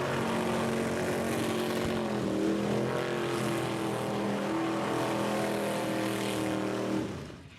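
Rat rod's engine held at high, steady revs in a burnout, over a broad hiss. The revs shift a little about two seconds in, and the sound drops away sharply near the end as the throttle is let off.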